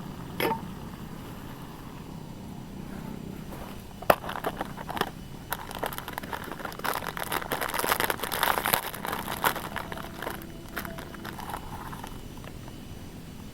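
Objects being handled: a sharp knock about four seconds in, then several seconds of rustling and small clicks that die away near the end.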